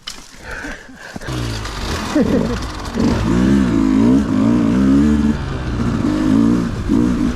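Dirt bike engine coming in about a second in, then revving unevenly with the throttle blipped up and down before settling into a low, fairly steady run.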